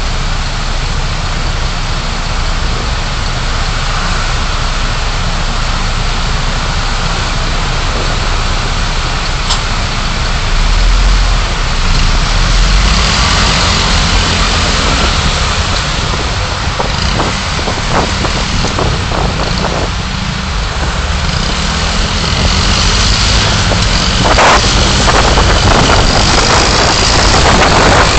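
Car driving, heard through a dashcam: steady road and engine noise that grows louder about eleven seconds in and again near the end, with a few scattered clicks.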